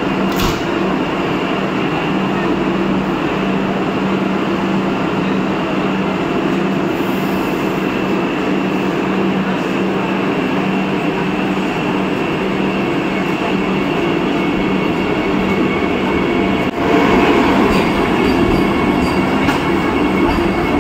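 Vande Bharat Express train running: a steady rumble with a constant low hum. Near the end it suddenly turns louder and fuller.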